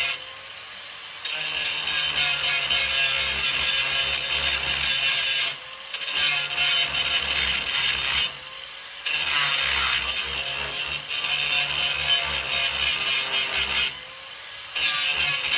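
Angle grinder grinding steel floor metal in long passes. It is lifted off the work three times, and each time the grinding noise drops away for about half a second while the motor keeps spinning.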